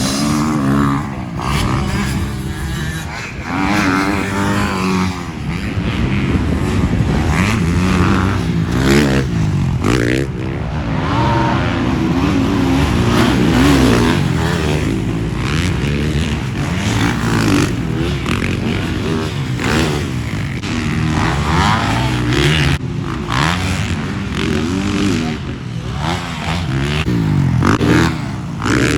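Several motocross bikes racing, their engines revving up and down in pitch over and over as they accelerate and shift, overlapping one another without a break.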